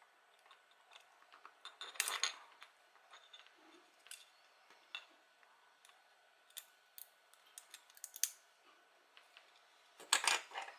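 Irregular small clicks, taps and snips of small 3D-printed plastic parts being handled and worked on, with two louder clusters of clatter about two seconds in and near the end.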